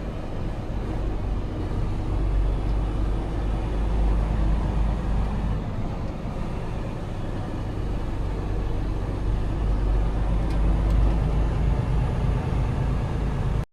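Steady low rumble of a semi-truck's diesel engine running.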